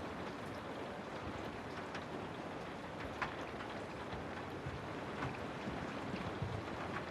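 Steady rain falling, with a few louder single drips standing out now and then.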